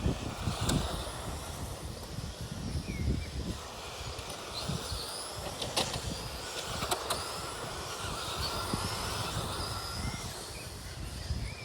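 Radio-controlled Tamiya race trucks running, their electric motors giving faint wavering whines, with a few sharp clicks around the middle and a low rumble of wind on the microphone.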